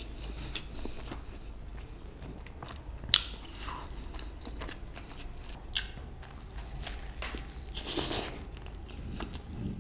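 A person biting into and chewing a thick lamb burger with a soft bun and fried egg, close to the microphone: soft chewing with small wet mouth clicks, one sharp click about three seconds in and a brief louder rush of noise near the end.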